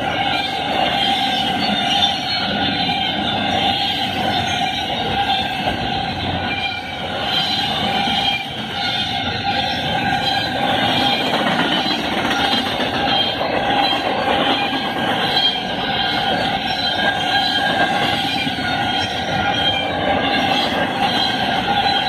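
Double-stack intermodal train's loaded well cars rolling past at about 60 mph: a steady, loud rumble of steel wheels on rail, with steady high tones running over it.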